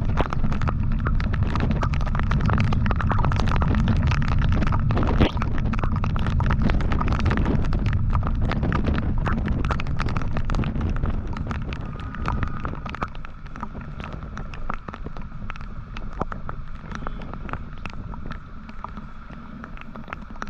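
Heavy wind buffeting on the microphone of a moving motorcycle, over engine and road noise, with many small clicks. It eases off about twelve seconds in, leaving lighter riding noise.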